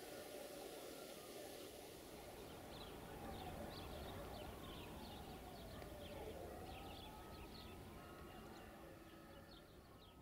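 Small birds chirping repeatedly over a faint outdoor background hiss.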